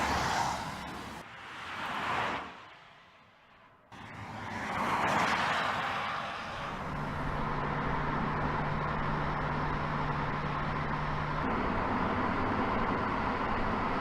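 Cars driving past at speed, the engine and exhaust sound swelling and fading with each pass: two quick passes, an abrupt cut, another pass about five seconds in. After that comes a steady engine drone with a low hum.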